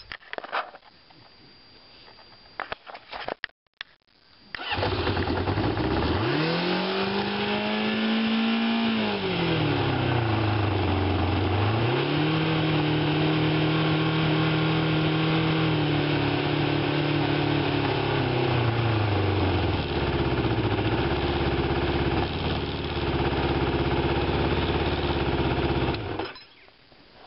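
1995 Kawasaki Ninja 600 inline-four engine starting a few seconds in and revving up, dropping back, then held at raised revs for several seconds before settling to idle. The sound stops suddenly near the end.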